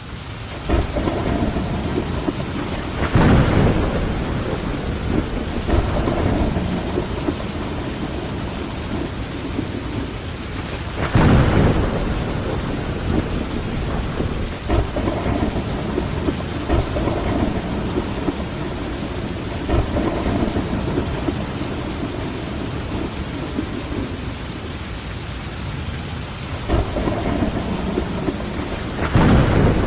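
Steady rain on a window glass, fading in at the start, with three low rumbles of thunder swelling up: about 3 seconds in, about 11 seconds in, and again near the end.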